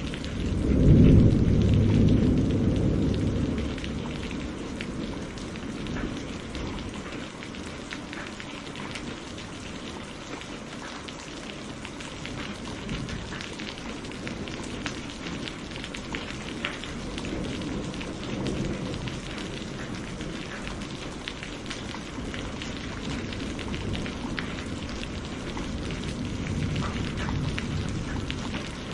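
Steady rain beating on a window, with a loud rumble of thunder about a second in that dies away over a few seconds. Softer rolls of thunder come a little past halfway and again near the end.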